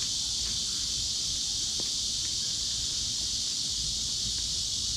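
Steady high-pitched chorus of insects, with a low rumble of wind on the microphone underneath.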